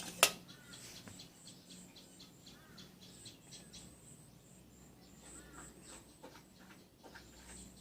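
Faint high chirping of insects and birds, repeated a few times a second, with one sharp click just after the start.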